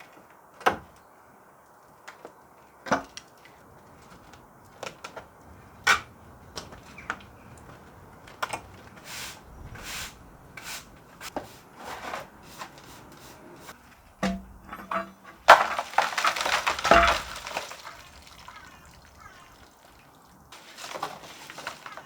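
Scattered knocks and clacks of hard objects being handled and set down, then a longer, louder burst of clattering and scraping about fifteen seconds in, with a little more near the end.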